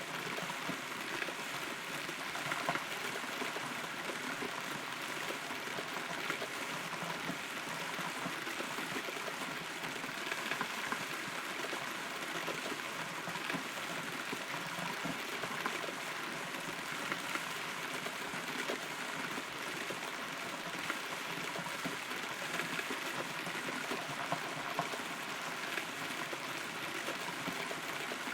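Rain falling steadily, pattering on wood and leaves around the inside of a hollow rotten tree, with many small scattered drips.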